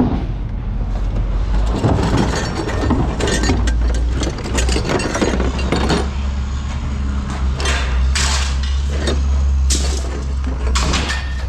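Pieces of scrap metal clanking and clinking as they are thrown down, in irregular knocks with a few louder bangs near the end, over a steady low engine rumble.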